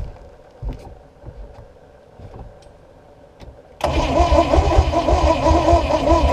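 A few light knocks, then about four seconds in a starter motor suddenly begins cranking a small-block Chevy 350 marine inboard. It turns the engine over in a slow, even rhythm without it catching, a sign of a weak battery turning the engine too slowly, on an engine thought to be flooded.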